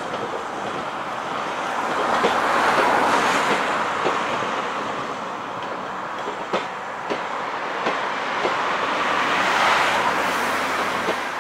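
Train wheels clicking over rail joints amid a steady rolling rush. The rush swells twice, about two and a half and nine and a half seconds in.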